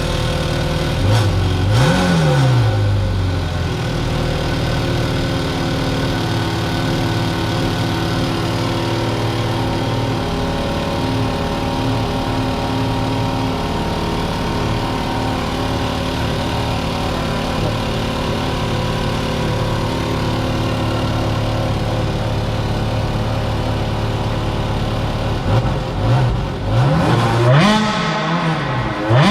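A supercar engine idling steadily. It is revved once about two seconds in, then given several quick throttle blips near the end.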